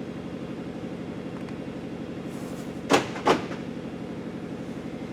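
Two sharp knocks about a third of a second apart, about three seconds in, over a steady, evenly pulsing low hum.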